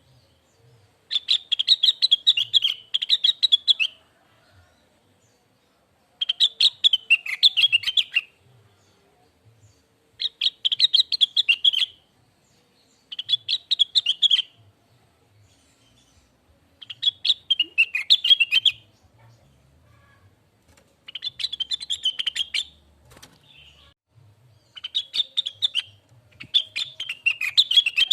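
Blue-winged leafbird (cucak wilis) singing in about eight separate phrases of rapid, chattering, whistled notes, each one to three seconds long, with short pauses between them.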